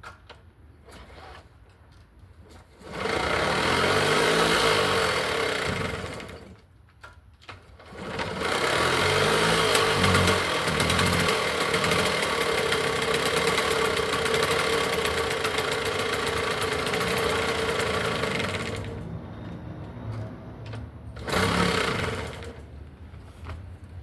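1969 Legnano T118 Saxonette moped's small two-stroke engine cold-starting after 15 years unused: it catches about three seconds in and dies after a few seconds, catches again and runs with varying revs for about ten seconds, then drops lower with one more short burst of revs near the end.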